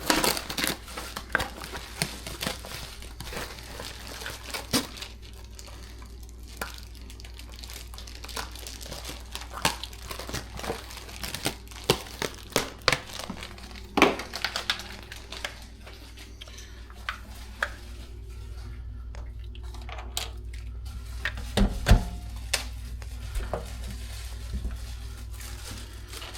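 Packaging being handled while a new faucet is unpacked: irregular crinkling and rustling, with scattered sharp clicks and knocks of parts being picked up and set down.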